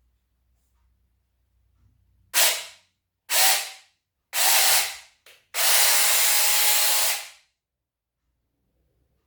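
Small cordless battery-powered handheld chainsaw run in short trigger bursts: three quick whirs about a second apart, a brief blip, then one held for nearly two seconds, each dying away as the chain spins down.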